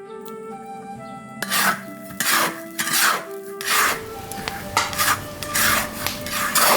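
Seven slow, rasping scraping strokes, one roughly every second, starting about a second and a half in, over background music.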